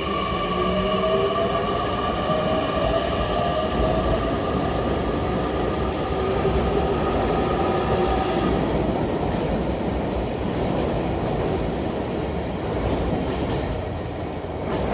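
Japanese train horn held for about eight seconds over the noise of a running train, with several tones sounding together and the lower ones gliding slightly; the horn stops about eight and a half seconds in, leaving the rumble of the train on the rails.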